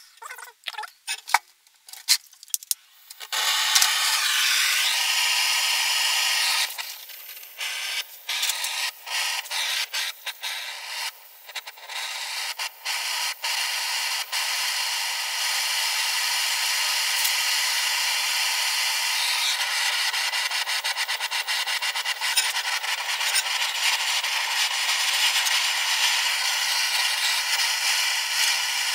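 Steel being worked with an abrasive or cutting tool: a few knocks, then a rasping grind that stops and starts for a while and later runs steadily.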